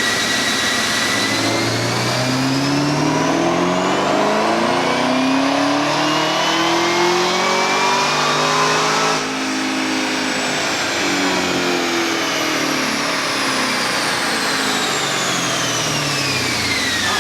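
Supercharged LT4 V8 of a stock 2019 Camaro ZL1 making a full-throttle baseline pull on a chassis dyno. The engine note and the high supercharger whine climb steadily in pitch for about nine seconds. The throttle then closes and both fall away as the car coasts down.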